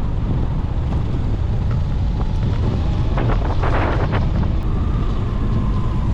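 Wind buffeting the microphone of a moving motorcycle, a steady low rumble, with a brief rattling burst about three seconds in.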